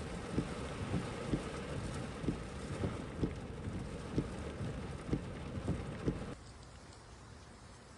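Heavy rain pouring during a thunderstorm, a dense steady hiss with irregular low thuds every half second or so. About six seconds in it cuts abruptly to a quieter, thinner hiss.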